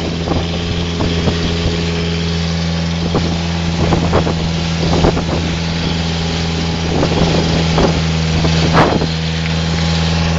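River boat's motor running at a steady drone, with rushing wind and water noise over it.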